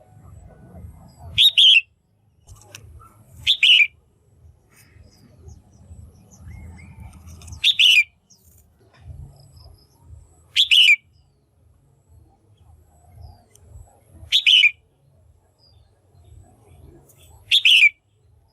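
Female red-whiskered bulbul calling: six short, loud notes a few seconds apart, each falling in pitch. A faint low rumble runs between the calls.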